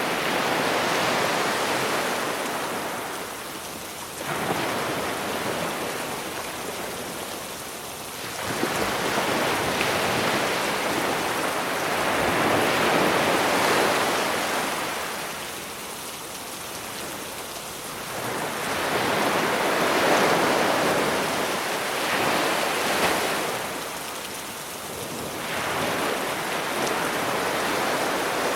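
Sea waves washing onto a beach, swelling and falling back every few seconds, under a steady hiss of rain mixed in from a rain recording.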